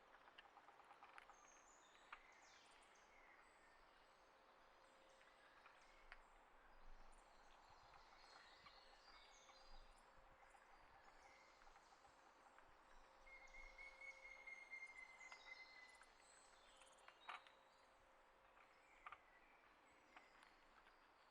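Faint outdoor ambience of wild birds chirping, with one longer whistled note a little past the middle and a few sharp taps scattered through.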